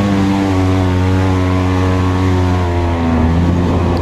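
Off-road vehicle's engine running at high, steady revs, its pitch easing slightly about three seconds in.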